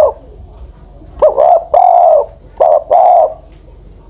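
Spotted dove cooing: a coo ends right at the start, then about a second in comes a phrase of two quick short notes followed by a long coo, then two more coos, loud and close.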